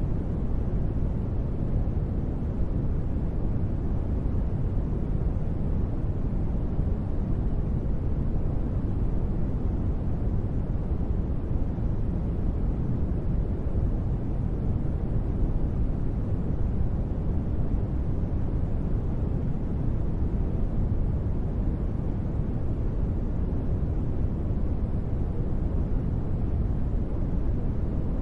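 Steady ambient noise track for sleep and relaxation, a deep, even rumble with only a soft hiss above it, unchanging throughout.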